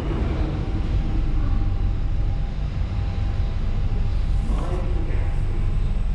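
Steady deep rumble of a London Underground Central line train running through the tube tunnel at the platform.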